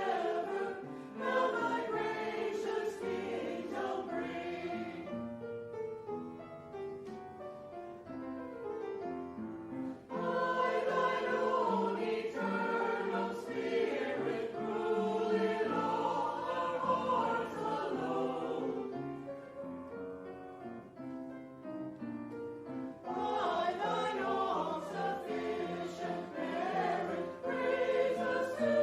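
A choir singing, the phrases swelling and easing, with softer passages about a fifth of the way in and again about two-thirds of the way in.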